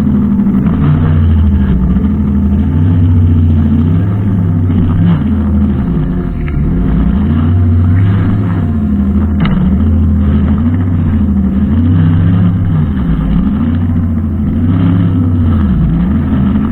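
Brushcutter engine running, its speed rising and falling in repeated swells every second or two.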